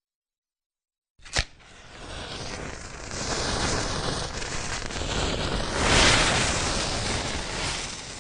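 Thunder: a sharp crack a little over a second in, then a long rolling rumble that builds to its loudest about six seconds in and dies away near the end.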